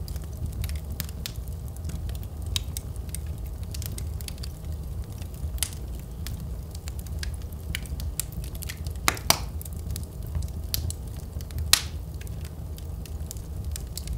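Wood fire in a fireplace crackling, with a steady low rumble of flames under frequent small sharp pops. Two louder pops stand out in the second half.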